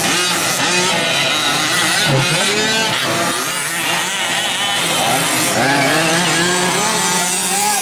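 Several 1/5-scale gas RC trucks' small two-stroke engines revving and easing off as they race, their buzzing pitches rising and falling over one another.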